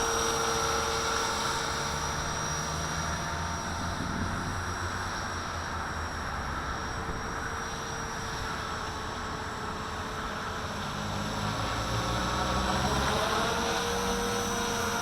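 Walkera V450D01 electric RC helicopter hovering: a steady whine from its motor and rotors, the pitch wavering and rising a little near the end as it holds against the gusts. Wind buffets the microphone underneath.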